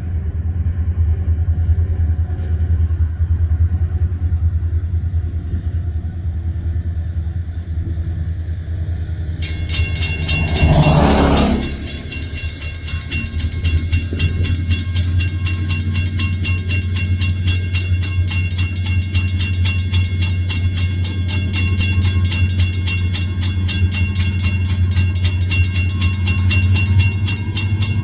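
A freight train led by EMD SD40 and GP38 two-stroke diesel locomotives going by, with a steady low engine rumble. The loudest moment comes about ten seconds in as the locomotives pass, followed by a fast, even clatter of the cars' wheels on the rails.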